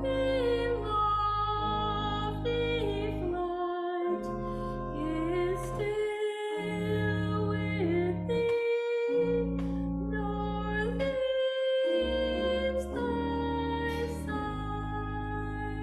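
Choir singing a slow Southern folk tune with instrumental accompaniment. It moves in long held chords, with brief pauses between phrases.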